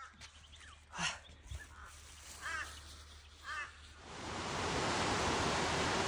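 A few bird calls ring out, a louder one about a second in and two short arched calls a little later. About four seconds in, a steady rush of falling water comes up and takes over.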